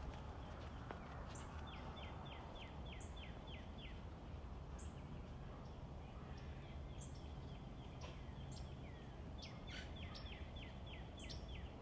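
Faint birdsong over a steady background hum: several runs of quick, falling high chirps, one after another, with short sharp chips between them.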